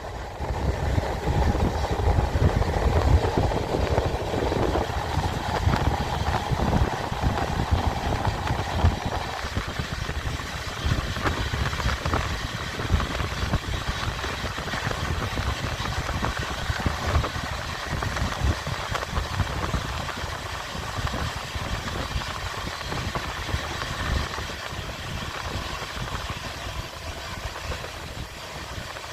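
Train running on the rails: a continuous low rumble and rattle. A higher hum drops away about nine seconds in, and the noise eases slightly toward the end.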